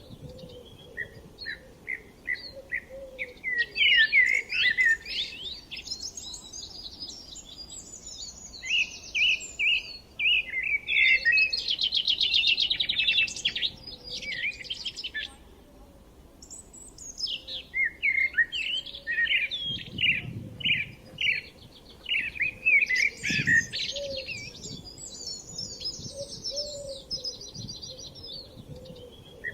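Several songbirds singing and chirping, overlapping, in short repeated chirps and warbled phrases, with a fast trill a little before the middle and a brief lull just after it.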